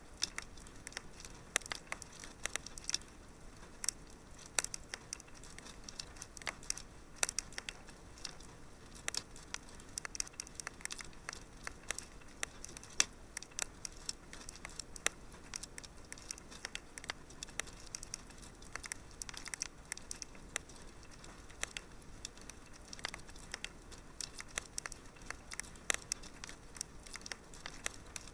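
Wood fire crackling in a fireplace: many irregular sharp pops and snaps over a faint steady hiss.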